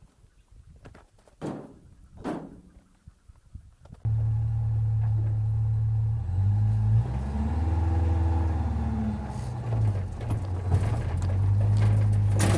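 Two faint knocks, then a small motor or engine sets in abruptly with a loud low hum whose pitch sags and recovers once before running steady again.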